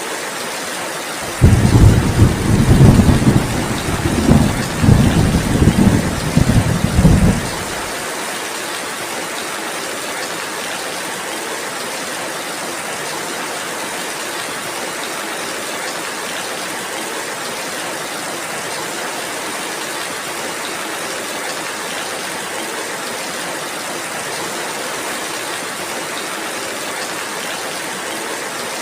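Steady rain falling, with a sudden roll of thunder about a second in that rumbles low and loud for about six seconds, well above the rain, then dies away.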